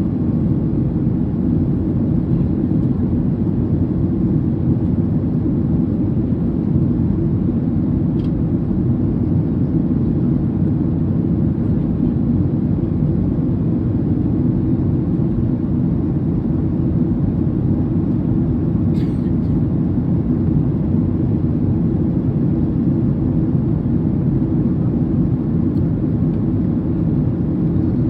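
Steady cabin noise inside a Boeing 737 airliner in flight: an even low rumble of engines and airflow. A faint click comes about eight seconds in and another near nineteen seconds.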